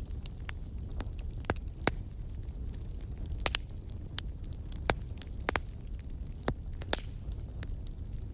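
Fire crackling: sharp pops at irregular intervals over a steady low rumble of burning.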